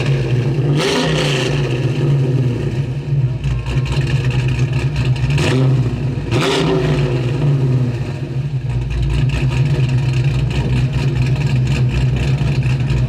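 Car engine running with a steady low drone, revved briefly about a second in and twice more around five to seven seconds in.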